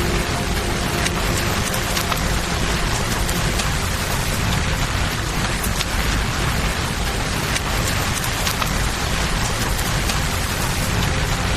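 Steady rain over the low rush of a flowing river, with scattered sharp crackles from a campfire.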